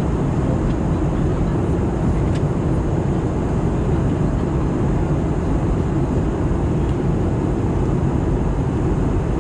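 Steady cabin noise inside an Airbus A320-214 airliner in descent: a constant low rush of airflow and engine drone.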